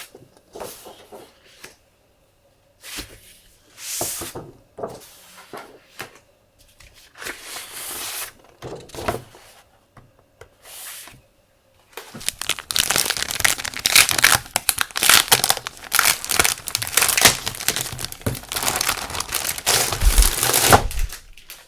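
Paper and packaging being handled up close. A few short separate rustles come first, then from about twelve seconds in comes a long stretch of dense crinkling, like sheets or wrapping being pulled and shuffled.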